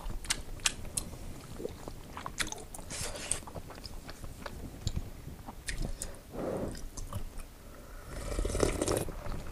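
Close-miked eating of udon noodles: wet chewing with sharp mouth clicks, then, near the end, broth sipped and swallowed from the bowl in a longer noisy stretch.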